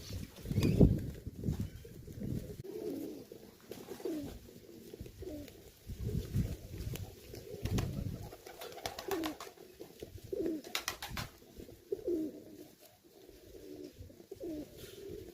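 Domestic pigeons cooing over and over, one short call about every second. There are low thumps near the start and again about six to eight seconds in, and a quick run of clicks about eleven seconds in.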